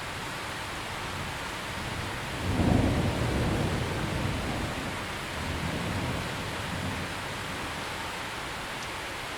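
Steady rain with a roll of thunder: a low rumble swells suddenly about two and a half seconds in and rolls away over the next four seconds.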